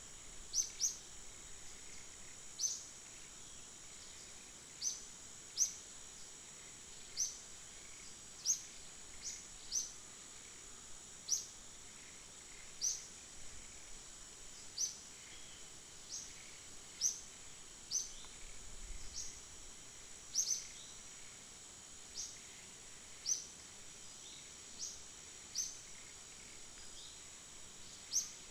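Outdoor wildlife sounds: short, high, downward-sliding chirps, one every second or two, over a steady high-pitched insect drone.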